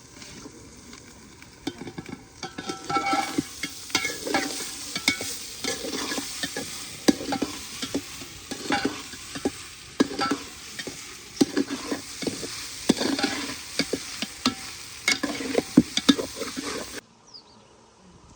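A metal spoon stirring and scraping in a cooking pot of frying food, with repeated clinks over a sizzle. It stops abruptly near the end.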